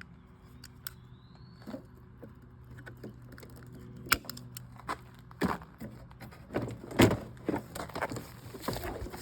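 Scattered clicks and knocks of hand tools and plastic parts as a car's headlight assembly is worked loose, getting louder and busier about halfway through, over a low steady hum.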